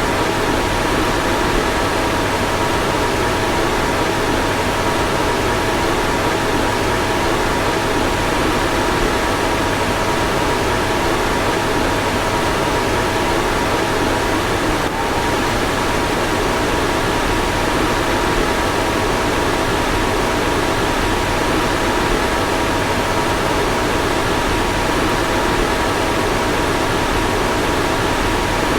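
Car fan blowing steadily: an even rush of air with two faint, steady whining tones under it.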